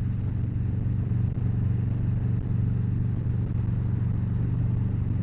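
Harley-Davidson Road Glide's V-twin engine running steadily at road speed, with wind rushing over the rider's microphone.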